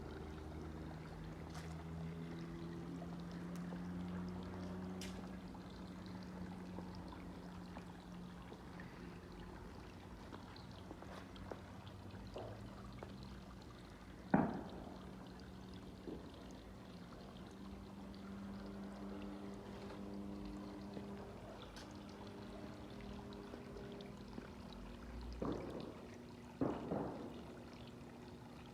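Water pouring over a home-built rock waterfall in a steady splashing stream. A sharp knock comes about halfway through and two more near the end.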